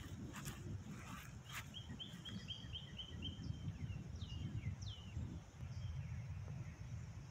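A songbird singing a quick run of about seven repeated chirps, about four a second, followed by two downslurred notes, over a steady low outdoor rumble.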